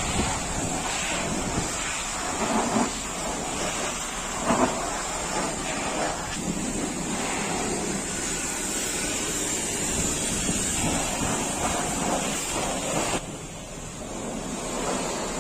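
High-pressure water spray hitting a truck's body, a steady hiss with uneven splashing surges. The hiss drops away about thirteen seconds in.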